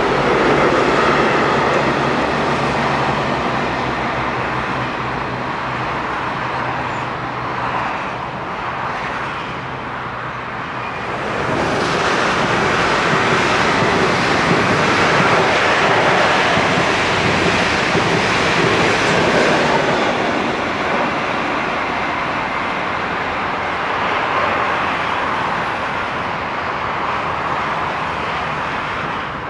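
Trains rolling on an electrified double-track mainline: the wheels and wagons of a freight train of covered wagons running away, with a low steady hum in the first ten seconds. A louder rushing of wheels on rail swells about eleven seconds in and eases off after about twenty seconds.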